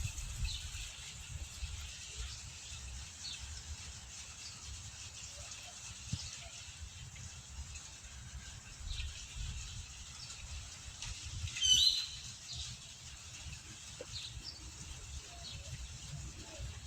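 Small birds chirping now and then in short, high calls, with one louder call about twelve seconds in, over a low rumble.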